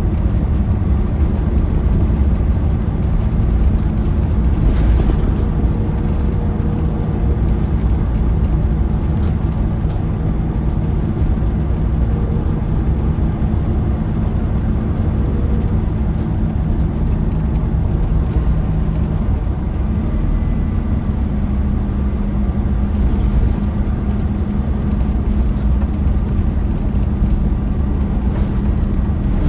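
Scania DC9 five-cylinder diesel of a Scania L94UB bus running under way, heard from inside the cabin with a steady low rumble and road noise. The engine note changes about twenty seconds in, and there are two brief knocks from the bus body.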